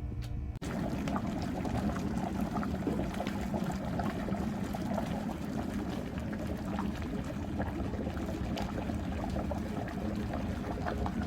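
Fish broth boiling hard in a wood-fired cast-iron cauldron: a dense, steady bubbling full of small pops, starting just after a sudden cut about half a second in.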